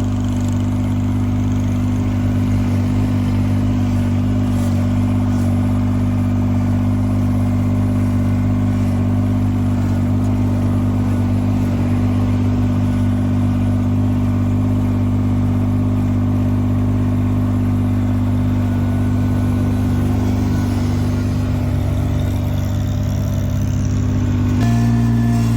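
Engine running steadily, a constant low drone with no change in speed, that shifts abruptly in tone near the end.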